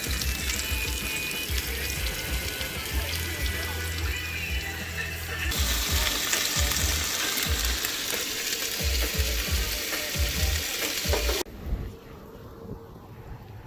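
Food frying in a pan: a steady sizzle that stops abruptly near the end, leaving a much quieter background.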